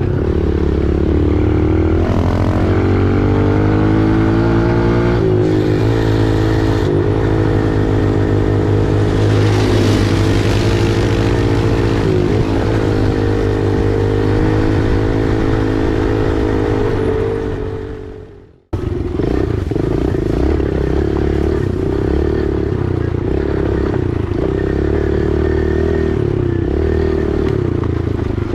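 Small single-cylinder four-stroke dirt bike engine running while riding, its pitch rising and falling gently with the throttle. About two-thirds of the way through, the sound fades away and then cuts back in abruptly.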